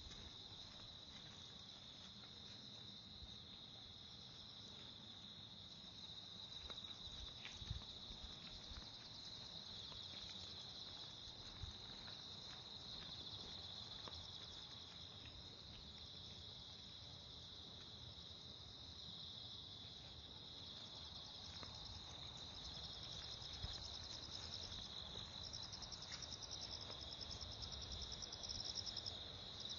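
Insects calling in a steady high trill, with a second, pulsing trill joining about two-thirds of the way in, over faint low thuds of footsteps.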